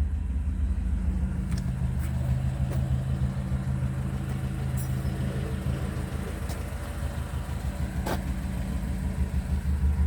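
Ford Consul 375's four-cylinder engine idling steadily, with a few light clicks and knocks.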